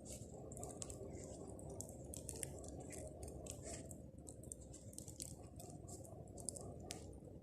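Bonfire of pruned tree branches crackling: many sharp, irregular pops and snaps over a steady low rush.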